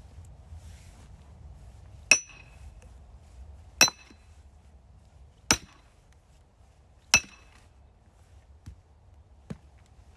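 Four ringing hammer blows on metal, evenly spaced about a second and a half apart, followed by two lighter knocks near the end.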